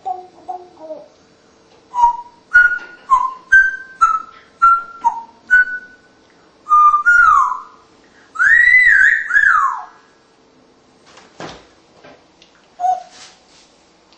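African grey parrot whistling: a quick run of short, clear whistled notes, about two a second, then a longer warbling whistle that rises and falls, with a few softer notes near the end.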